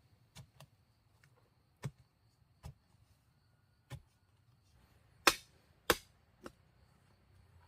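Sharp blows of a tool chopping or striking wood, about eight strikes at uneven spacing, the two loudest close together about two-thirds of the way through.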